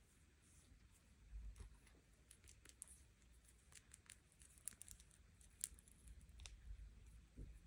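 Faint, scattered clicks and crinkles of packaging being handled and opened, over a low background hum.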